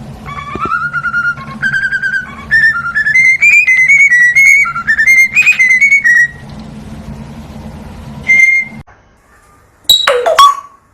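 A pet parrot whistling a tune: a quick run of clear, slightly wavering notes stepping up and down for about six seconds. One more short note follows, and near the end comes a loud call that sweeps sharply down in pitch.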